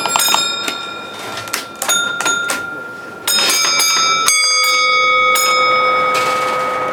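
Railway signalling block bells, small instrument bells struck in short groups to ring bell codes between signal boxes. Several quick strokes come in the first half, and one stroke a little past halfway keeps ringing on.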